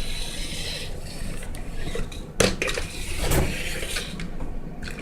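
Hard objects being handled, clattering and rubbing against each other, with a sharp knock about two and a half seconds in.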